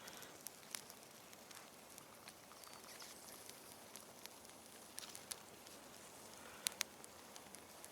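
Small freshly lit campfire of damp twigs crackling faintly, with scattered sharp pops, two louder ones in quick succession near the end, over a low hiss as the fire tries to catch.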